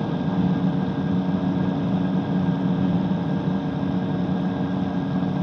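Microlight trike's engine running steadily in flight, a constant drone with an even hum and no change in pitch.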